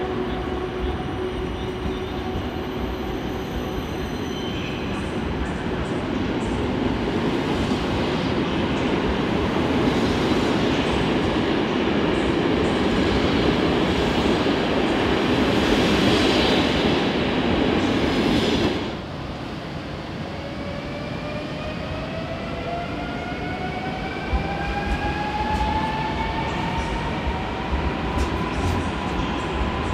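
Passenger train hauled by a PKP EP07 electric locomotive rolling along the tracks, its wheel-on-rail noise growing louder. About two-thirds of the way through, the sound cuts off suddenly and an ED78 electric multiple unit is heard: its traction motors whine in several tones together, all rising steadily in pitch.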